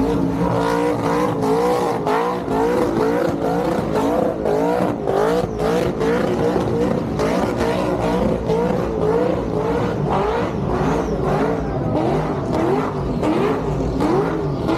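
Car engine revving hard and held high, its pitch swinging up and down about twice a second, with crackles running through it.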